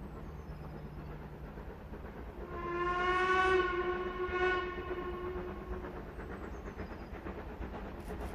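Steam locomotive whistle, from Ivatt Class 2MT tank engine No 41241, blown once for about three seconds with two swells, over a low steady rumble.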